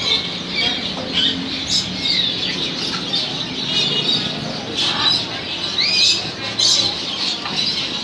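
Caged birds chirping and calling, with many short whistles and rising and falling chirps scattered through, and a few harsher squawks.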